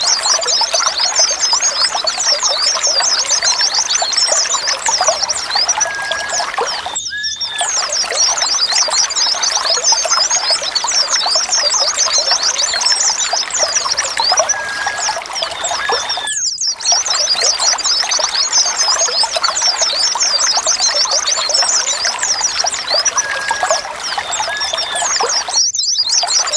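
A dense flock of white-eyes twittering, many quick high chirps overlapping without pause. The recording loops, with a brief break about every nine seconds.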